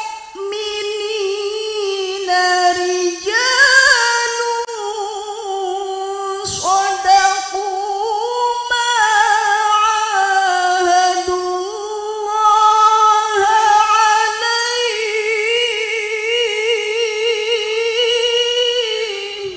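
A woman reciting the Qur'an unaccompanied in the melodic tilawah style, holding long ornamented phrases with a wavering vibrato and pausing only briefly for breath. The voice stops abruptly just before the end.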